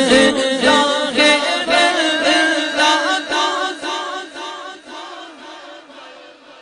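Unaccompanied naat singing: voices chanting a devotional melody in a quick run of short sung syllables, fading down over the last couple of seconds.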